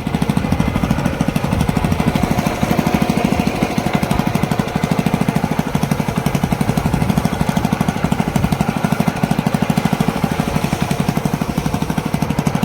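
Honda CD100 motorcycle's single-cylinder four-stroke engine running steadily, with a rapid, even exhaust beat.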